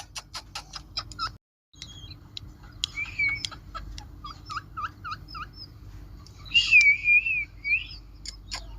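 Pet parrot clicking, chirping and whistling. It opens with a quick run of sharp clicks, then short chirps, about five quick down-slurred notes, and a louder warbling whistle about seven seconds in.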